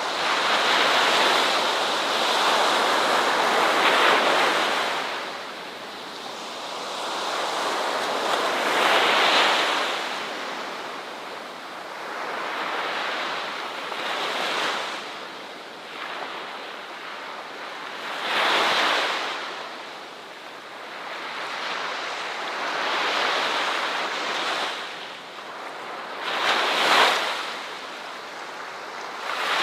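Ocean surf: waves breaking and washing up the shore, the rush swelling and fading every four to five seconds, with the loudest crash near the end.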